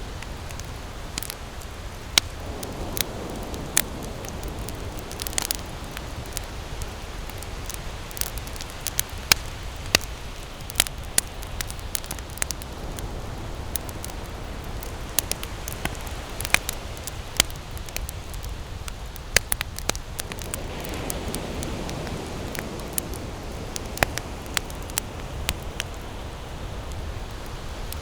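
Wood campfire burning and crackling, with irregular sharp pops and snaps over a steady hiss and low rumble. A soft rushing swell rises and fades twice, a few seconds in and again past the middle.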